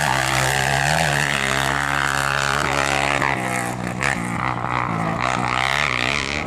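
Racing engine of a gravel rally competitor revving hard. Its pitch climbs and drops several times as it changes gear.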